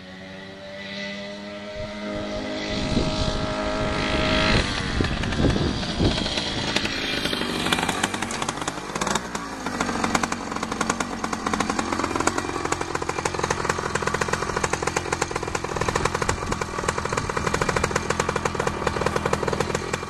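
Skyhawk 66cc two-stroke motorized bicycle engine with an SBP expansion chamber exhaust, getting louder over the first few seconds as it revs up, then running hard at steady high revs.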